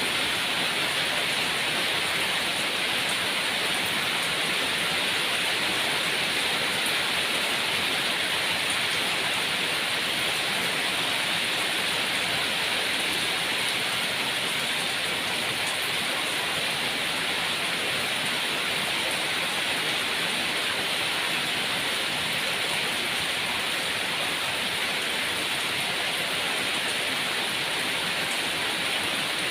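Steady heavy rain falling, an even hiss of drops that does not change.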